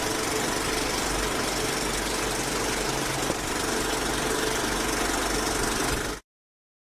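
Jelbart 6 HP stationary oil engine running steadily with an even, knocking beat. The sound cuts off abruptly about six seconds in.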